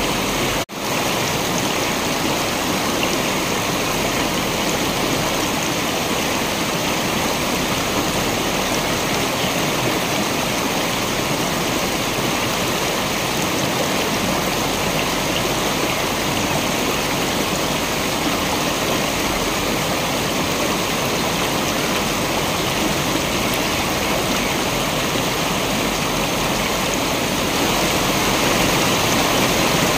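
Waterfall rushing steadily, an even wash of falling water. The sound drops out for a split second under a second in, and grows slightly louder near the end.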